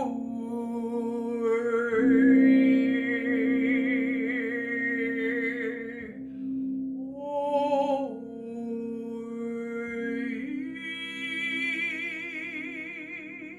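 A woman's wordless singing and humming in long held notes with vibrato, moving between pitches every few seconds, over a steady low drone.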